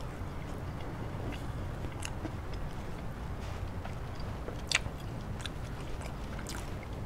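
Close-up mouth chewing a hot dog, with soft wet mouth clicks and one sharper click a little under five seconds in.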